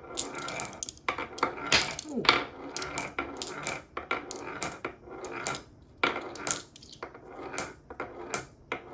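Marbles clicking and clattering against each other and a hard surface in quick, irregular knocks.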